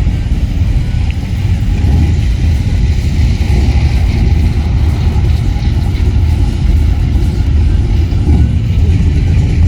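Vintage cars driving past in a street parade, engines running with a steady low rumble.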